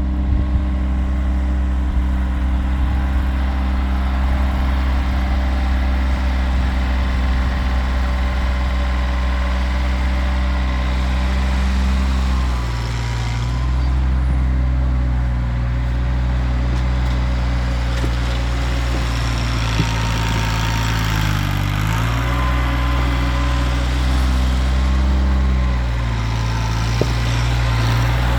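Kioti tractor's diesel engine running steadily, its pitch shifting a little about halfway through, dipping briefly about two-thirds in, and shifting again near the end.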